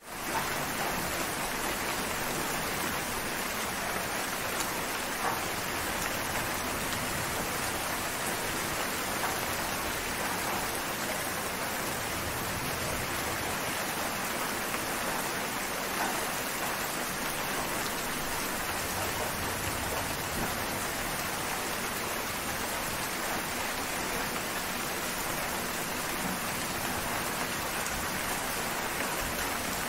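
Steady rainfall: an even hiss of rain fading in quickly at the very start, with a few louder single drops standing out now and then.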